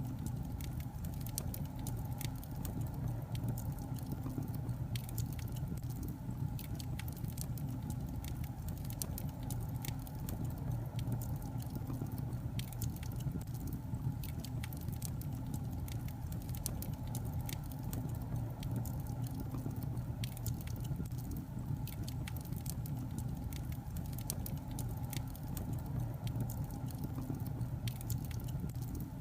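Wood logs burning in a fireplace: a steady low rumble of flame with frequent small sharp crackles and pops scattered throughout.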